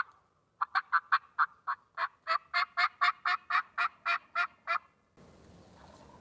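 Turkey yelping: a long series of about eighteen short, sharp notes at roughly three to four a second, stopping abruptly near the end.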